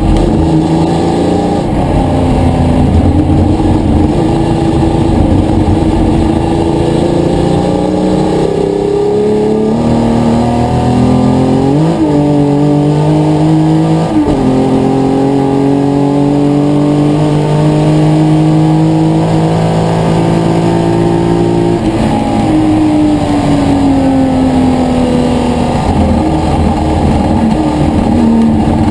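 Historic touring race car engine under hard acceleration: revs climb and drop sharply through gear changes about twelve and fourteen seconds in, hold steady at high revs, then fall away about twenty-two seconds in as the throttle comes off, before climbing again.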